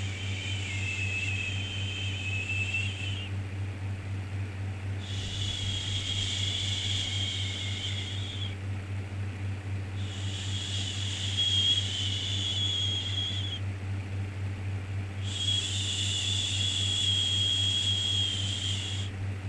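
Repeated soothing "shhh" shushing for a baby, in long hushes of about three and a half seconds, each followed by a pause of about a second and a half. A steady low hum runs underneath.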